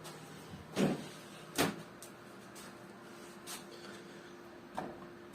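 A few sharp knocks and clunks of something being handled, the loudest about a second and a half in, over a faint steady hum.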